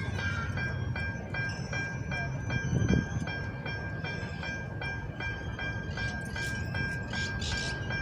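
Train siren sounding a steady high tone that pulses about three times a second, over the low rumble of the train.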